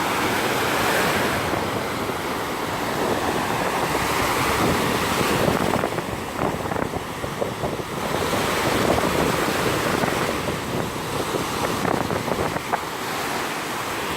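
Black Sea surf breaking and washing up on a sand beach, swelling and falling back every few seconds, with wind buffeting the microphone.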